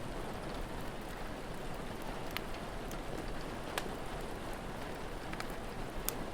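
Steady rain falling, with a few sharp pops from a crackling fire scattered through it.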